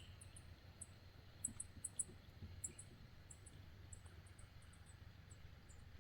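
Quiet outdoor ambience: faint, quick, high-pitched chirps repeating irregularly over a low rumble.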